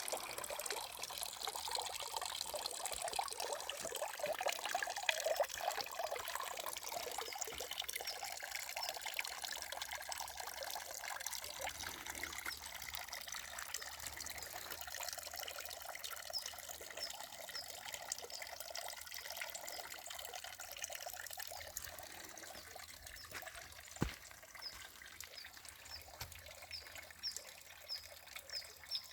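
Water trickling and splashing down a three-tier garden cascade, fuller at first and easing off in the second half. From about halfway a string of short high chirps repeats about twice a second, and a single sharp click sounds near the end.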